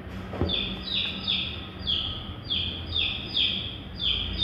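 A bird calling over and over: short, high chirps that sweep downward, coming in quick pairs. There is a soft knock about half a second in.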